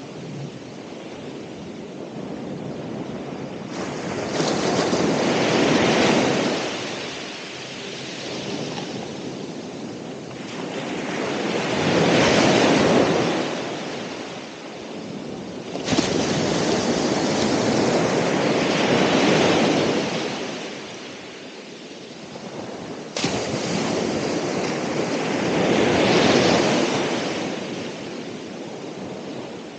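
Ocean waves breaking on the shore, with four surges about every six to seven seconds, each swelling and then washing back. Three of the surges come in suddenly.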